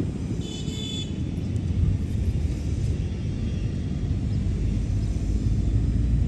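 A steady low rumble, with one short high-pitched chirp about half a second in.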